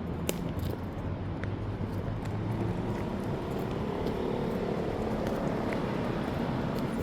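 City street traffic: road vehicles running and passing, a steady low rumble with a vehicle's engine hum swelling a few seconds in, and a few faint clicks.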